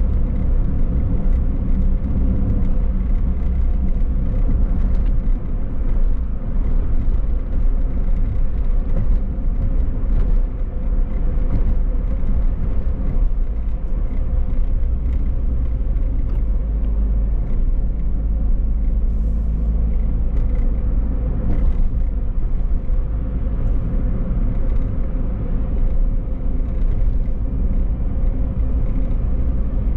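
Car driving steadily: a constant low rumble of engine and road noise, with a faint steady hum over it.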